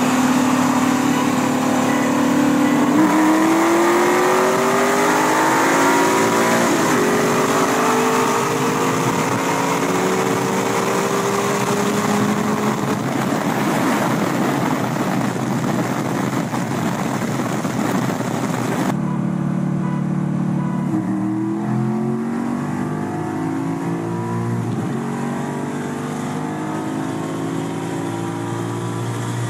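2003–04 Ford Mustang SVT Cobra's supercharged 4.6-litre V8 running at full throttle, its pitch climbing through the gears with upshifts. About two-thirds of the way through, the sound cuts to another run, with an engine again climbing in pitch and shifting.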